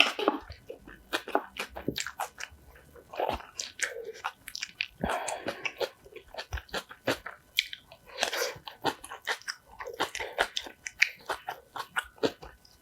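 Close-miked biting and chewing of food, with crunchy bites and many sharp mouth clicks.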